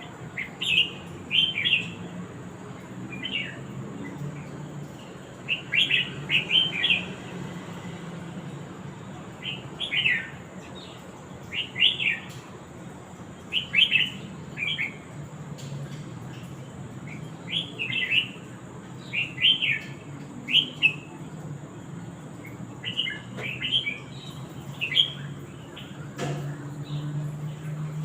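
Short high-pitched chirps in quick clusters of two to four, repeating every second or two, over a faint low steady hum.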